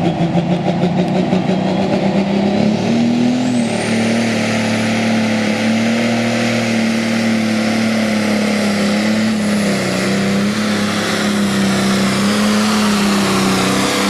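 Pro stock pulling tractor's turbocharged diesel engine revving up as the turbo spools with a rising whistle a few seconds in, then running hard and steady under heavy load as it pulls the sled down the track.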